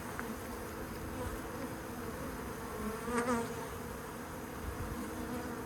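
A honeybee colony buzzing in a steady hum, with a short wavering chirp a little past halfway.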